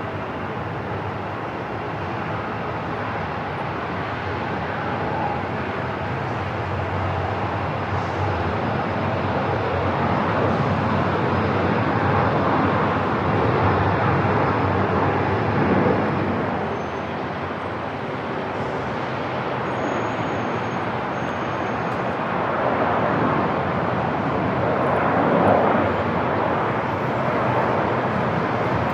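Airport ambience: a steady wash of noise, with aircraft noise mixed in, that slowly swells and eases.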